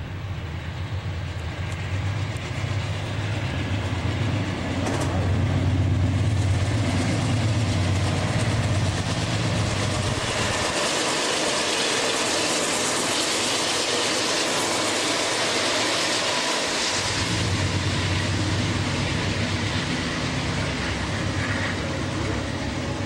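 A train passing close by. A low rumble for the first ten seconds or so gives way to a louder rushing noise of wheels on the rails, and the low rumble returns about seventeen seconds in.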